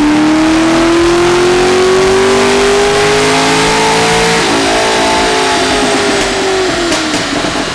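2013 Corvette 427's LS7 7.0-litre V8 making a full-throttle chassis-dyno baseline pull on its stock exhaust. The revs climb steadily for about four and a half seconds, then the throttle closes and the engine winds down.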